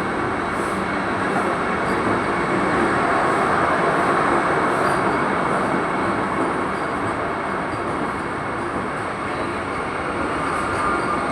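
Train running on the rails: a steady rumble and rush with a faint steady whine throughout.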